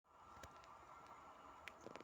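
Near silence: faint steady hiss with a few soft clicks.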